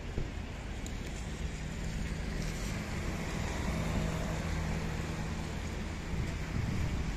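Car engine running close by, a steady low hum that comes in about a second and a half in and fades a little after halfway, over a steady hiss of wind and the wet street.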